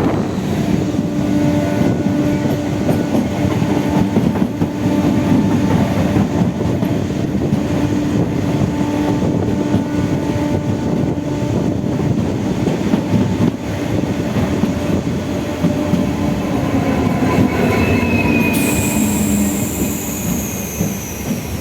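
MEMU electric train running along the track: a steady rail rumble with a constant whine over it. About 18 seconds in, a high-pitched squeal starts and slides down in pitch.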